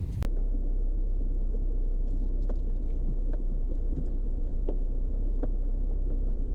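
Steady low rumble of a vehicle driving, with a few faint light clicks.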